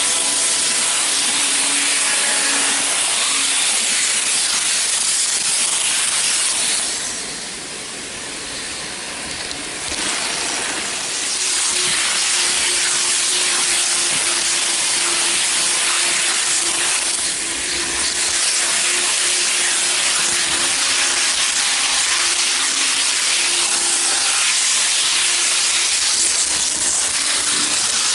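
N-gauge model Shinkansen running at full throttle, heard from a camera riding on the train: a steady, loud hiss of small wheels and motor on the track with a faint whine. The hiss drops off briefly about a quarter of the way through, then comes back.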